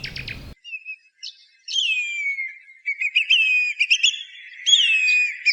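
A songbird calling: a series of clear whistled notes, several sliding down in pitch, with quicker short notes packed between them in the second half.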